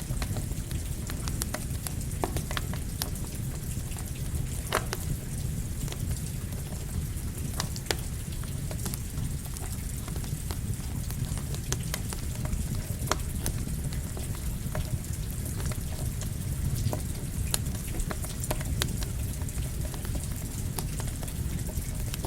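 Campfire crackling, with irregular sharp pops, mixed with steady rain over a constant low rushing noise.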